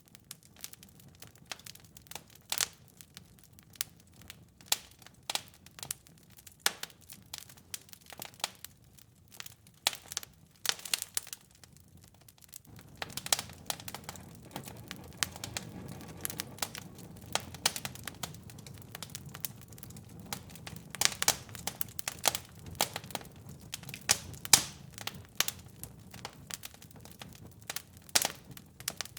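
Wood fire crackling, with irregular sharp pops and snaps. About 13 seconds in, a steady low rush of burning comes in under the crackle and stays.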